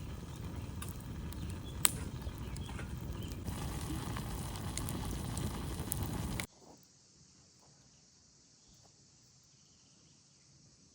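Campfire burning with a dense crackle and scattered sharp pops, one loud snap about two seconds in. It cuts off suddenly about six and a half seconds in, leaving only a faint steady hiss.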